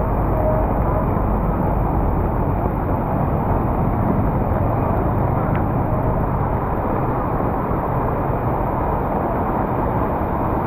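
Steady, muffled rush of heavy rain and passing traffic on a flooded city street, with no single sound standing out.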